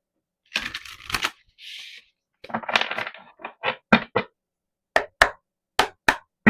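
A deck of tarot cards being handled and shuffled: rustling of cards in the first half, then a run of sharp snapping clicks as the cards are cut and tapped.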